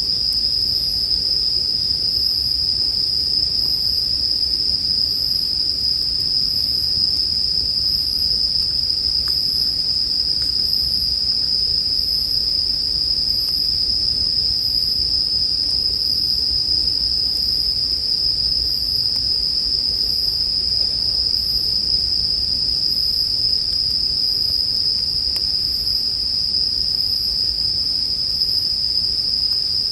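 Japanese bell crickets (suzumushi) singing in one continuous high-pitched trill, with a fainter, higher chirp repeating about every second and a half. Underneath are a low rumble and a few faint pops of a campfire.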